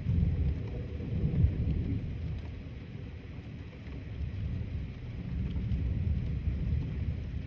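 Rolling thunder, a deep low rumble that swells to a peak about a second and a half in, eases off, then rumbles up again near the end.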